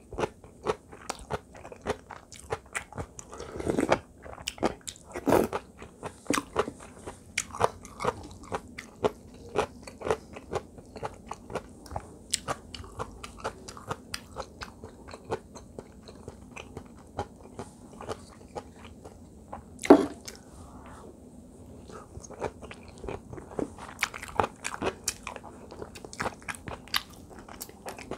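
Close-up eating: wet chewing and crunching of mouthfuls of kkakdugi fried rice, a steady run of small mouth clicks. One sharp knock stands out about two-thirds of the way through.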